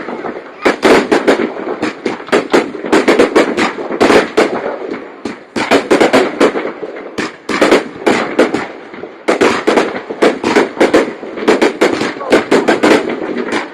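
Fireworks display: volleys of sharp bangs from bursting shells in quick clusters of several a second, each volley lasting a second or two with short lulls between. Crowd voices run steadily underneath.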